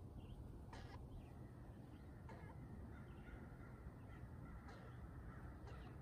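Several faint, short, harsh bird calls, spaced irregularly, over a steady low rumble.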